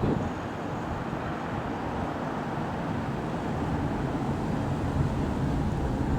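Jet engines of a Ryanair Boeing 737-800 running as the airliner passes, a steady low rumble with wind buffeting the microphone.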